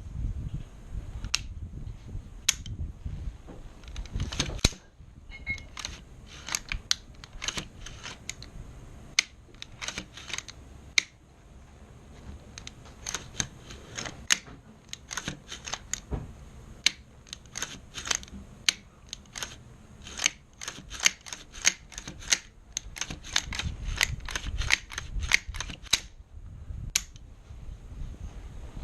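Sharp, irregular clicks and clacks, sometimes in quick runs, from the parts of a Colt AR-15 rifle being handled while it is cleaned.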